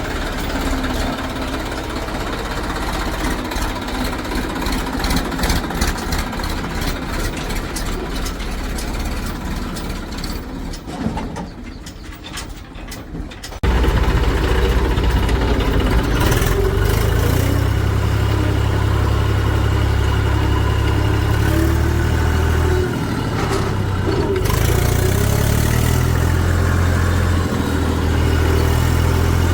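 Diesel engines of a JCB 3DX backhoe loader and farm tractors running at work. About halfway through, the sound changes abruptly to a louder, deeper, steady engine drone.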